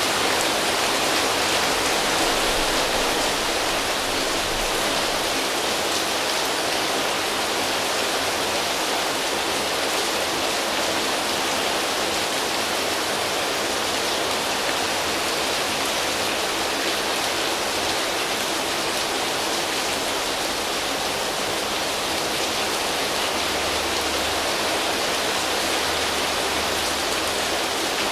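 Steady, even rain falling on leaves and foliage, a dense unbroken hiss of drops.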